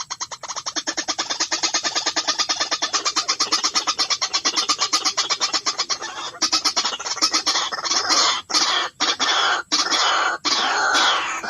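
White-breasted waterhen calls: a fast run of about ten croaking notes a second, turning after about six seconds into longer, harsher calls broken by short gaps.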